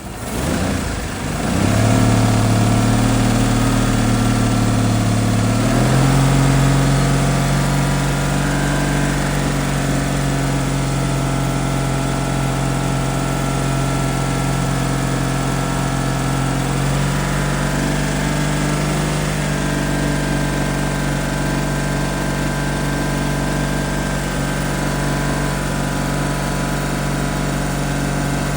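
1995 Ford Mustang 3.8-litre V6 cranking and starting about a second in, then idling steadily; its idle speed steps up a little about six seconds in.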